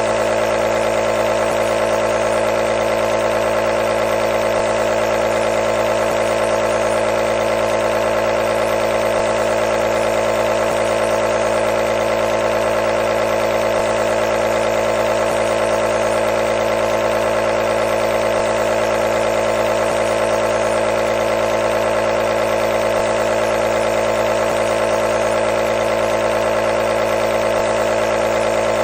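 Nebulizer's compressor motor running with a steady, unchanging hum and a hiss of air.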